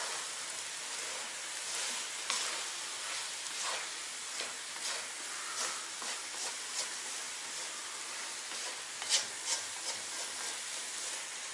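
Pork, onion, carrot and fresh tomato sizzling in a kazan while a wooden spatula stirs them, scraping and knocking against the pot again and again; the loudest scrapes come about nine seconds in.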